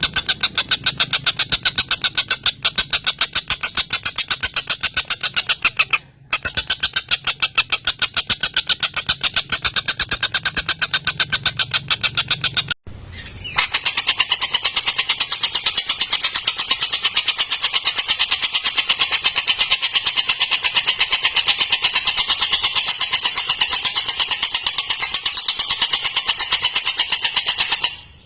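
Tengkek buto kingfisher giving a long, rapid, harsh chattering call of many closely spaced notes, broken by brief pauses about six and thirteen seconds in. A low hum sits under the first half.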